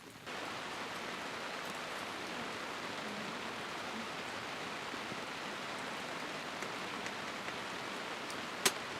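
Teapot of tea simmering in campfire embers: a steady hiss that starts abruptly, with one sharp tick near the end.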